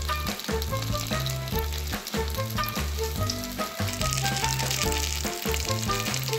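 Shredded vegetable nests frying in oil in a pan, a steady sizzle that grows louder about four seconds in, heard under background music with a stepped bass line.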